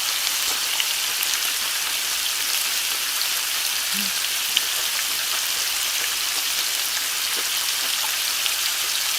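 Food sizzling in a hot pan: a steady crackling hiss with a few small pops.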